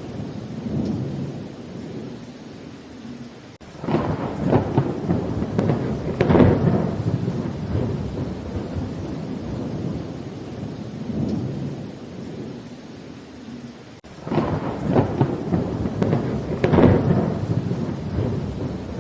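Steady rain with thunder rumbling twice, each roll breaking in abruptly, about four and fourteen seconds in, and rolling on for several seconds; the two peals look alike, a looped recording.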